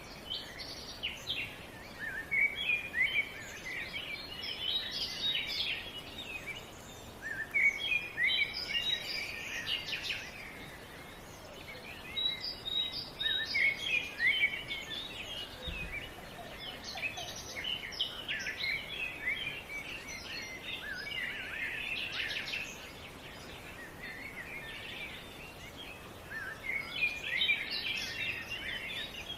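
Songbirds singing: bursts of quick, chirping song phrases every few seconds, over a steady background hiss.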